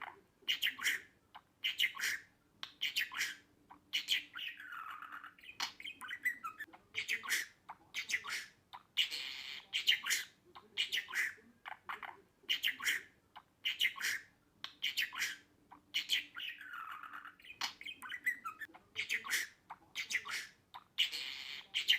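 Budgerigar chirping and squawking in quick, sharp calls, several a second, with a few longer warbling calls; the same sequence of calls seems to come round again about twelve seconds later.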